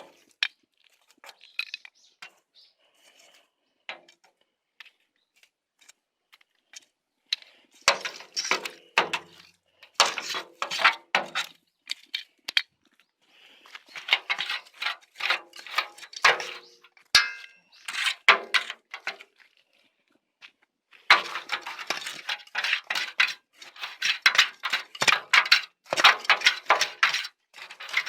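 Dry twigs and dead branches crackling and snapping in bursts of rapid sharp clicks, with short quiet spells between the bursts.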